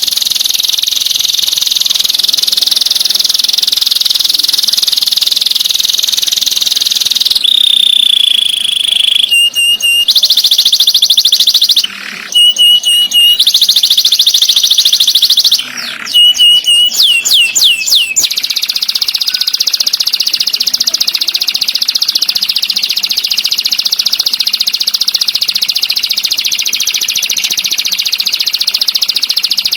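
Recorded songbird song played as masteran (song-training audio): a dense, high-pitched rapid trill that gives way about a quarter of the way in to a held note, runs of sharp repeated notes and quick falling whistles, then returns to the continuous trill.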